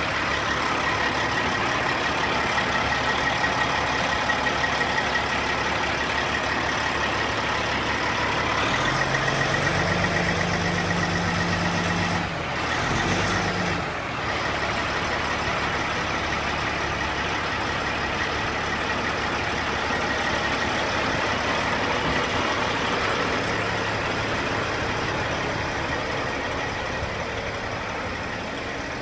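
The CAT C15 diesel engine of a 2005 Sterling LT9513 dump truck running with the hydraulic hoist raising the dump box, with a steady high whine over the engine. The engine note swells for about three seconds around the middle, then settles back.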